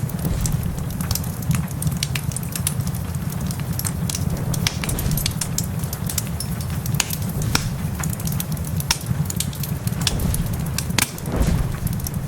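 Wood fire crackling in a fireplace, with frequent irregular sharp pops and snaps, over a steady low rumble and an even hiss of rain.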